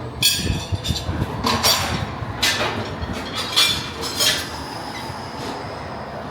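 Irregular metallic clanks and rattles over a steady low rumble, coming thickest in the first four seconds or so and thinning out after.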